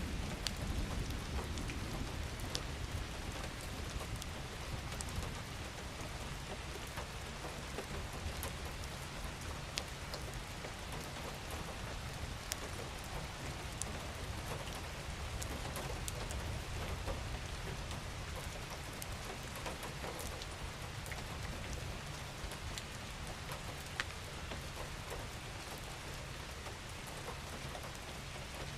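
Steady rain falling, with single drops ticking sharply here and there over the even patter and a low rumble underneath that is strongest at the start.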